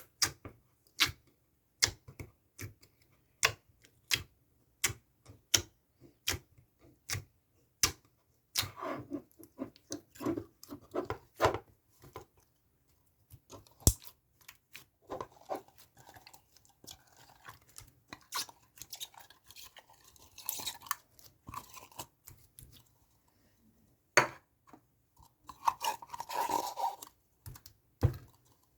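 Slime being pressed and worked by hand: sharp clicks about every 0.7 seconds for the first eight seconds, then crackling, crunchy squishes.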